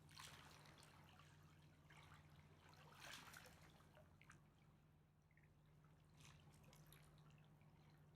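Faint river water lapping and dripping, with soft washes about every three seconds, over a low steady hum.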